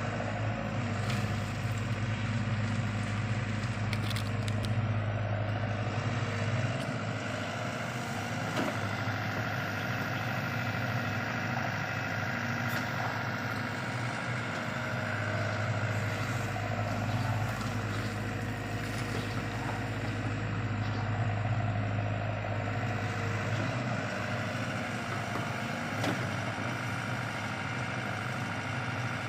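LiuGong CLG908E excavator's diesel engine running steadily with a low hum, its loudness swelling slightly now and then, with a few faint knocks.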